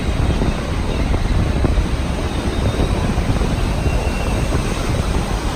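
Steady low rumble and rush of a moving passenger train, heard from on board.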